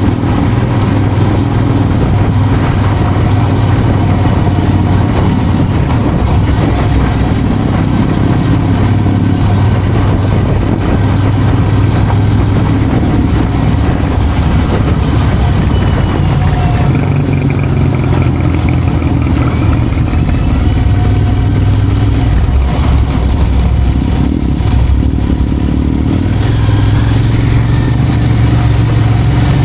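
Motorcycle engine running steadily while riding along, its note easing off and picking up again a couple of times.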